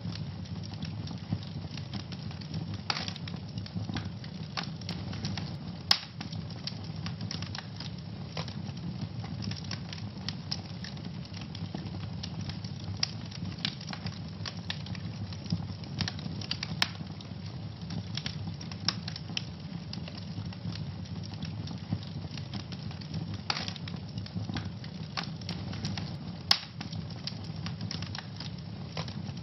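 Wood fire in a fireplace crackling steadily over a low, even rumble, with a few sharper, louder pops standing out, about six, seventeen and twenty-six seconds in.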